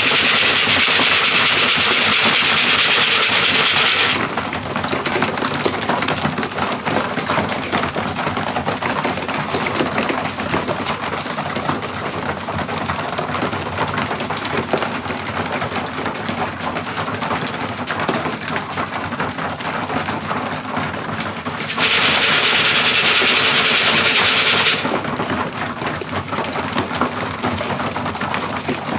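Racing pigeons moving about the loft: a constant clatter of small clicks, wing flaps and rustles. A loud hiss covers it for the first few seconds and again for about three seconds past the middle.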